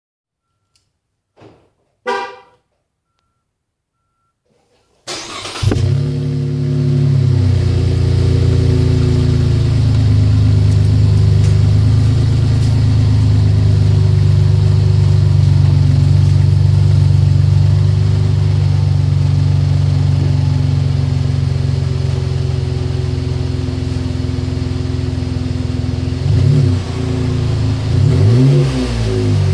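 A short beep, then a 2018 Chevrolet Colorado ZR2 with a GM performance exhaust starts about five seconds in and settles into a steady idle. Near the end the engine is revved briefly twice.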